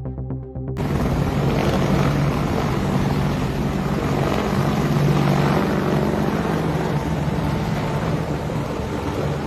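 Music cuts off about a second in to steady, loud aircraft noise: a broad rush with a low engine hum underneath.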